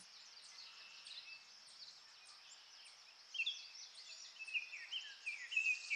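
Birds chirping outdoors: short, high, repeated chirps, faint at first and more frequent from about three seconds in, over a faint background hiss.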